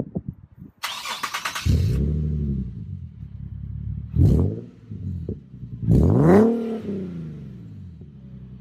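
Nissan 370Z's V6 with an aftermarket exhaust starting up: it catches with a flare about two seconds in and settles. It is then revved twice, a short blip and then a longer, higher rev that rises and falls, before dropping to a steady idle.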